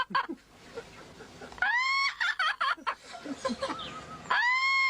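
Pet parrot calling: a rising-and-falling squawk about a second and a half in, a few short chirps, then a long arching call that starts near the end.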